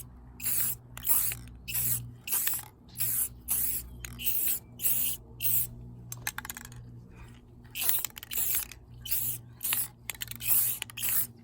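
Aerosol can of chrome spray paint hissing in short bursts, about two a second, with a brief pause about two-thirds of the way through, over a steady low hum.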